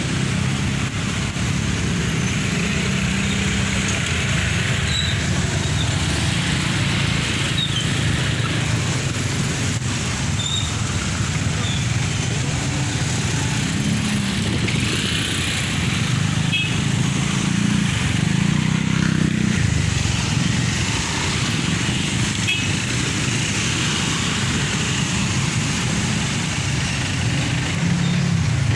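Busy road traffic: engines of passing trucks, cars and motorcycles running, with a low rumble that swells and fades as vehicles go by.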